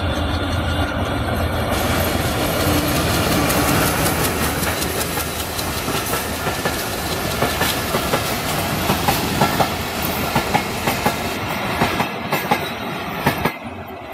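Diesel-hauled passenger train passing close by: the locomotive's engine rumble, then the coaches' wheels clicking over rail joints in a run of sharp clacks, with a drop in level near the end.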